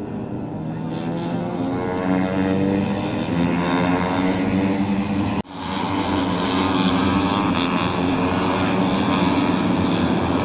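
Several engines droning steadily at once, their pitches slowly shifting. The sound drops out for an instant about halfway through, then resumes.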